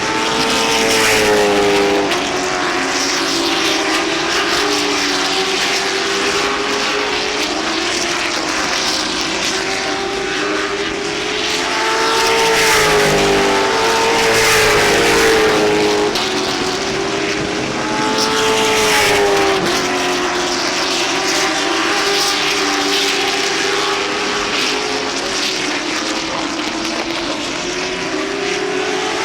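Late model stock cars racing around an oval, their V8 engines running hard at speed. The engine pitch rises and falls every few seconds as the cars go through the corners and pass by.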